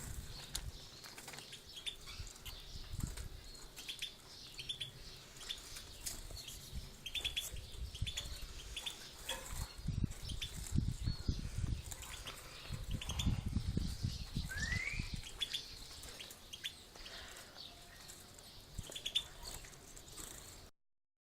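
Pet birds chirping: many short, high, repeated notes, with one rising whistle about two-thirds of the way through. Bursts of low rumbling come and go underneath, strongest in the middle.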